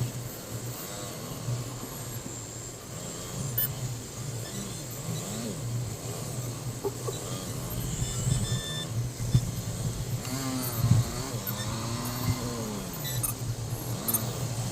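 Motor vehicle engines in road traffic: a steady low drone, with engines revving up and falling back several times in the second half.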